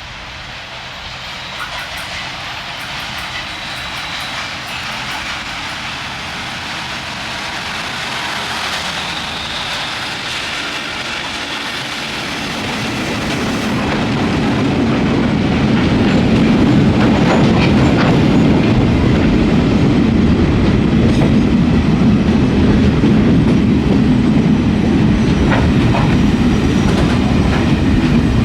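Freight train hauled by two diesel-electric locomotives coming into the station. The engines grow steadily louder over the first dozen seconds. From about halfway the loud, heavy rumble of the locomotives and wagons rolling past takes over, with scattered clacks of wheels over rail joints.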